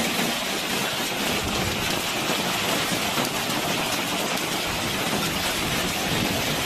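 Heavy rain pouring down in a storm: a steady, dense hiss with no separate strikes standing out.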